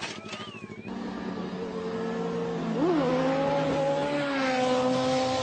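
A motor vehicle engine running at a steady pitch, with a quick rev up and back down about three seconds in.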